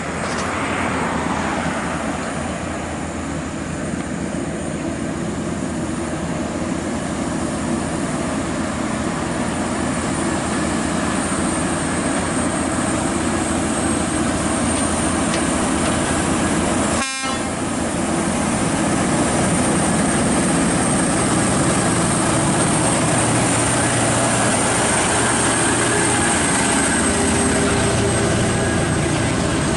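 Heavy-haul truck engines running under load with tyre and road noise, a steady loud drone, broken by a brief gap about 17 seconds in.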